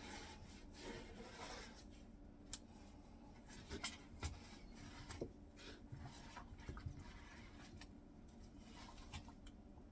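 Quiet rubbing and wiping inside the dishwasher's filter cavity, with a few small clicks and knocks.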